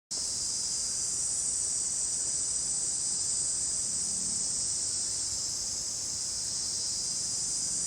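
Forest insect chorus: a dense, steady high-pitched drone that cuts in suddenly at the start.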